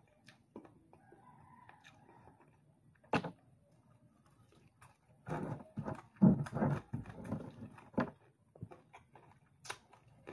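Close-up eating sounds: chewing, lip smacks and sharp little clicks of a mouthful of rice, egg and fried anchovies eaten by hand. The mouth sounds grow louder and more frequent about halfway through.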